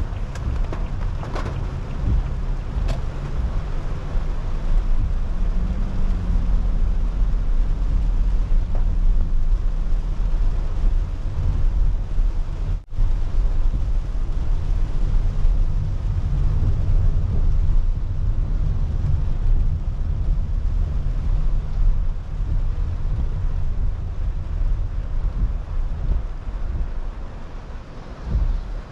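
A car driving in the rain, heard from inside: a steady low rumble of road and tyre noise under an even hiss of rain. The sound drops out for a moment about halfway through.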